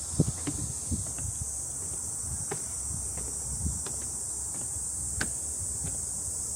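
Cicadas droning steadily in a high-pitched summer chorus, with soft footsteps on the trail and a few light ticks.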